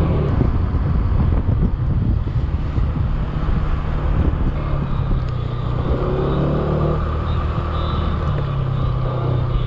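Motor scooter running while being ridden, its engine note steady with a few small shifts in pitch, over a constant rumble of road and wind noise.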